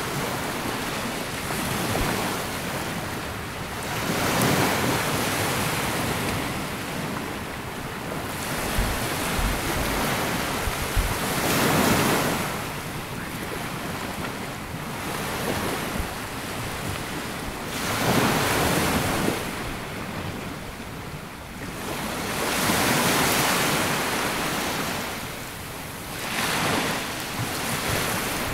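Sea waves breaking and washing up a sandy beach, the wash swelling and ebbing every few seconds.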